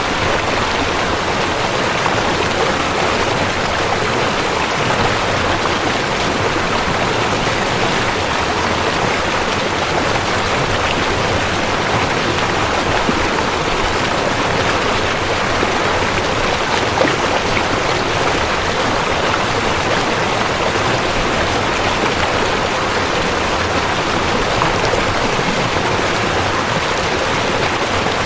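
River water flowing, a steady even wash of noise that does not change.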